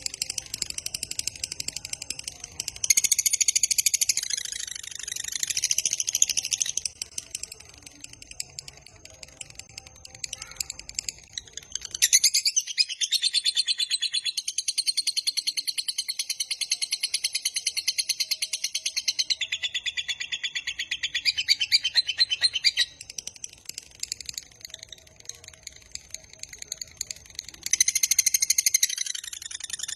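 Lovebird's long, rapid chattering song ('ngekek panjang'): fast runs of shrill notes in loud bouts, the longest lasting about ten seconds, with quieter chatter between them.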